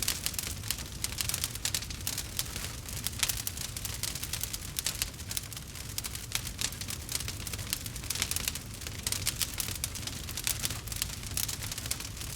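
Campfire burning with dense, irregular crackling and popping over a low, steady rumble.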